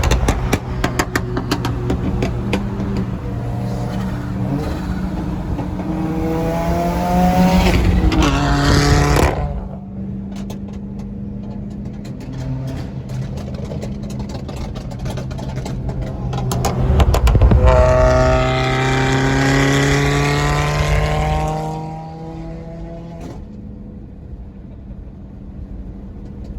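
Sports car engine running, then accelerating hard twice, about a quarter of the way in and again past the middle, its pitch climbing steadily each time before it eases off.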